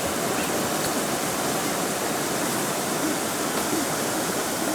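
Stream water flowing, a steady, even rushing.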